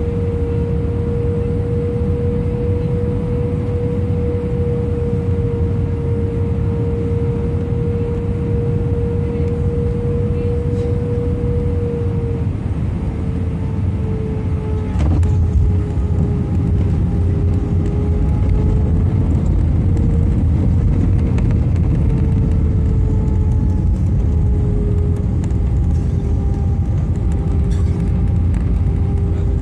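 Airliner cabin noise from an Airbus A319 in flight: a steady deep rumble of engines and airflow under a droning engine tone, which dips slightly in pitch about twelve seconds in. A single click comes about fifteen seconds in, and the noise grows a little louder after it.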